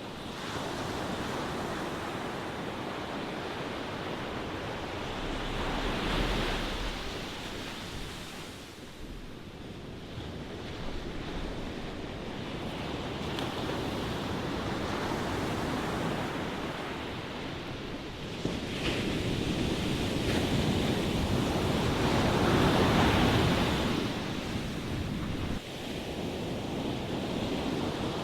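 Ocean waves breaking and washing in, a steady rush of surf that swells and ebbs, with a louder surge about six seconds in and a bigger one about two-thirds of the way through.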